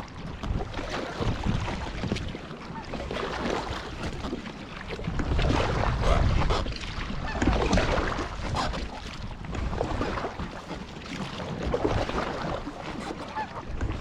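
Wind buffeting the microphone in a low rumble, with irregular splashing and lapping of lake water around a small inflatable raft.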